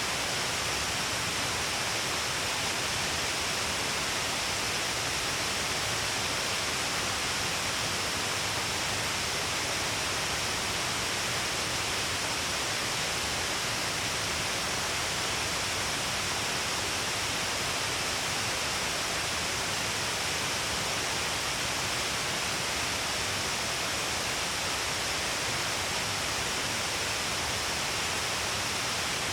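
Steady rushing of falling water from a waterfall, an even, unbroken roar with no changes.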